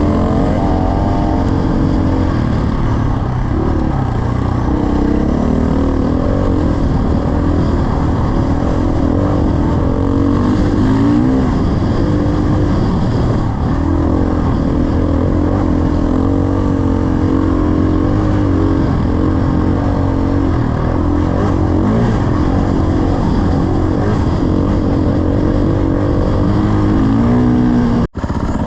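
Dirt bike engine running hard while riding, its pitch rising and falling as the throttle opens and closes. The sound drops out for an instant near the end.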